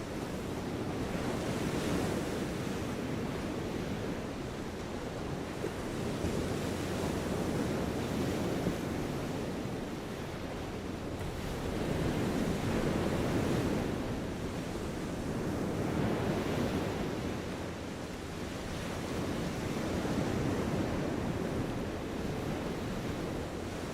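Steady rushing outdoor noise with no distinct events, swelling and easing in slow waves every four to six seconds.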